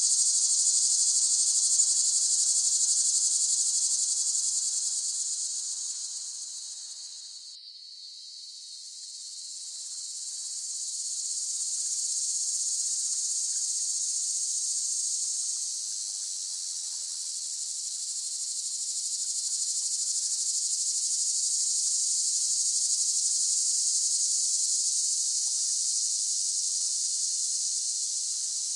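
Cicadas droning in a dense, steady, high-pitched chorus that fades down about a quarter of the way in, breaks briefly, then swells back up and holds.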